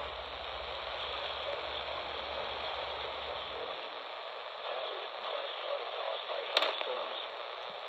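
Radio receiver static: a steady hiss with a low hum that drops out a little under four seconds in, and a single sharp click near the end.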